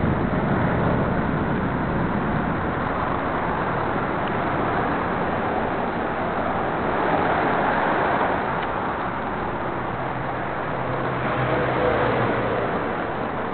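1966 Chevy truck running: a steady, noisy engine rush with a faint low hum, swelling slightly a little past the middle.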